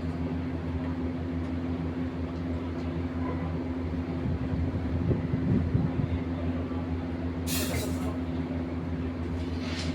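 A machine engine running steadily with a low drone. There is a short hiss about three-quarters of the way through and another near the end.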